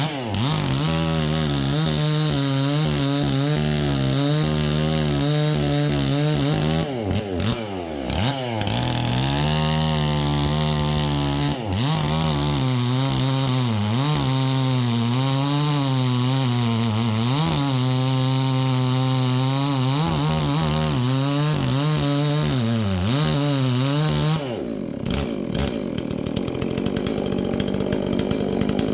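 Holzfforma G444 two-stroke chainsaw running after its first start, its engine speed rising and falling as the throttle is worked, with a couple of brief dips. About 24 seconds in, the steady engine note gives way to a rougher, noisier sound.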